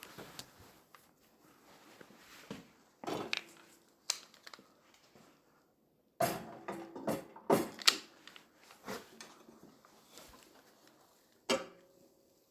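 Scattered knocks and clanks of a painted battery box and battery being handled and set into place on a riding mower chassis. There is a cluster of clatter in the middle and a few clanks with a brief ringing tone.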